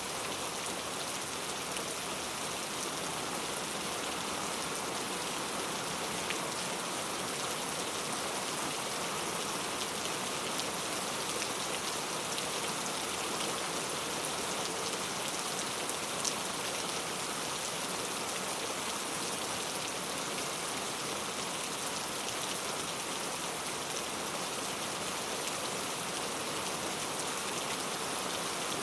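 Heavy rain falling steadily, a dense even hiss with a couple of sharper drop ticks along the way.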